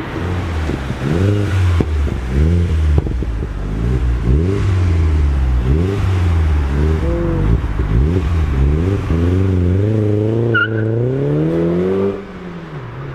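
A car engine revved hard over and over, its pitch rising and falling in quick blips, then a longer wavering climb. The sound drops off sharply near the end.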